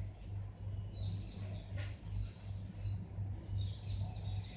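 Faint short bird chirps, a few scattered high peeps, over a steady low hum, with one soft click a little before two seconds in.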